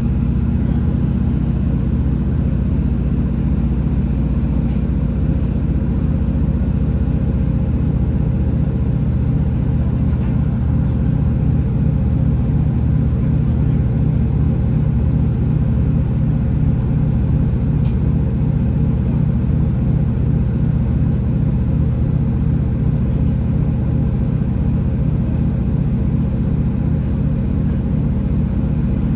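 Class 165 diesel multiple unit's underfloor six-cylinder Perkins diesel engine running at a steady pitch: an even, deep drone with a low pulsing rattle.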